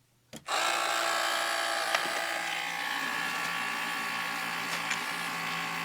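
Small electric motor of a Tekky Toys Floating Reaper animatronic starting with a click about half a second in, then running steadily as it drives the belt through a new 10-tooth gear. It runs at what seems the right speed, working properly.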